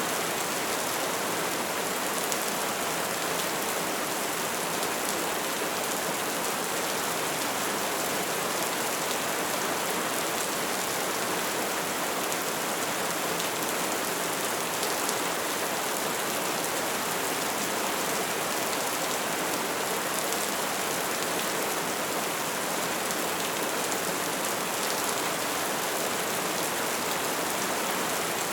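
Bonfire burning steadily, a dense hiss of small crackles and pops.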